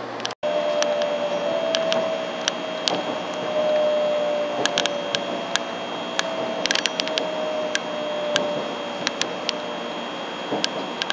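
Shinkansen 700-series train running with a motor whine that falls slowly in pitch as the train slows, over steady running noise with scattered sharp clicks and rattles.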